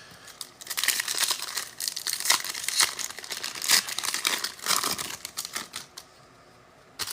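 Trading card pack wrapper being torn open and crinkled in the hands: a run of crackling and rustling that stops about a second before the end, with one more short rustle at the very end.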